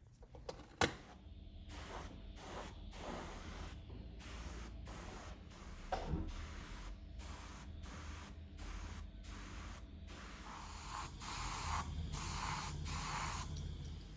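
Rhythmic hand scrubbing strokes, about two a second, a hissing rub against a hard surface with short pauses between strokes. There is a sharp click about a second in and a knock around six seconds in.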